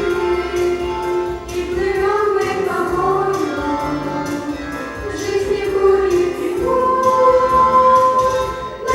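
Group of teenagers singing a song together, with long held notes.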